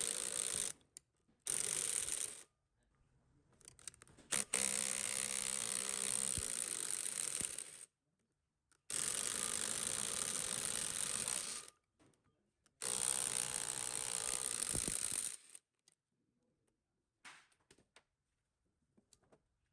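Mechanical hand-tool work on metal in five bursts of one to three seconds each, with short silences between them.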